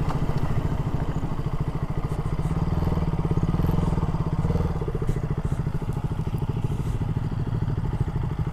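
Single-cylinder motorcycle engine idling steadily, with an even, rapid pulsing beat.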